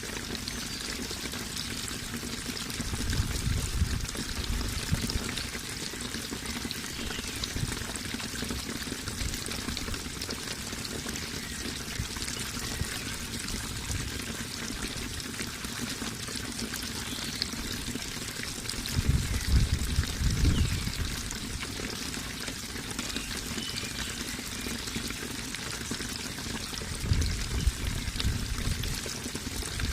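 Steady running water, with three brief low rumbles: about three seconds in, around twenty seconds in, and near the end.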